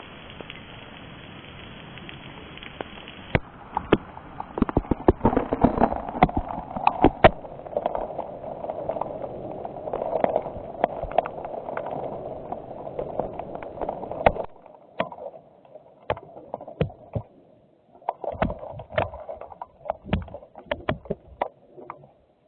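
Steady hiss of rain in a thunderstorm, then, from about three seconds in, a louder run of irregular close taps and knocks over a mid-pitched rushing noise, which stops and starts in the last few seconds.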